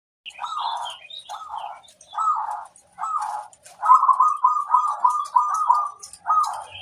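Zebra dove (perkutut) cooing: a string of rolling coo phrases, with a quick run of about seven short notes in the middle. Faint high chirps sound above it.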